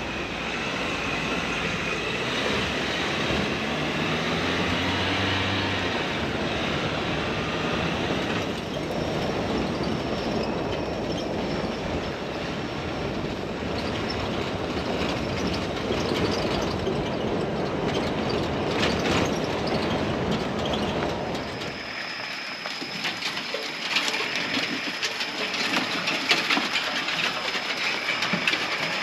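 Raptor pickup truck driving on a rough off-road track: steady rumble of the drive with repeated knocks and rattles over the bumps. Near the end the low rumble drops away, leaving lighter clattering and a steady high tone.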